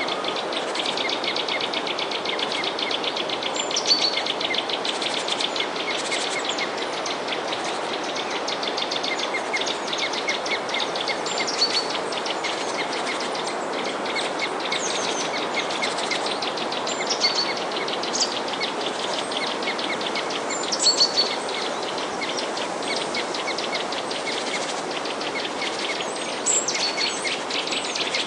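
Small songbirds chirping and twittering in many short, quick calls over a steady rushing hiss.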